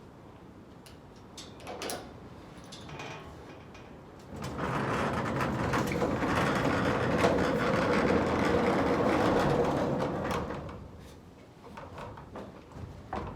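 A large sliding barn door rolling along its track for about six seconds, a steady rumble that swells in and fades out. A few light knocks come before it.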